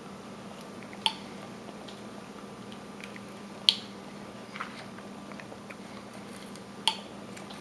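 A carving knife cutting into wood by hand, giving a few short, sharp snicks spread over several seconds, with a faint steady hum underneath.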